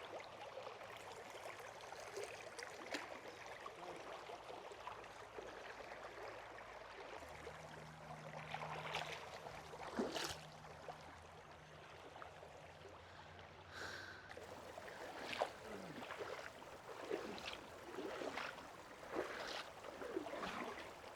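A river flowing faintly, with a few scattered short knocks and splashes. A low steady hum comes in about seven seconds in and fades out about fourteen seconds in.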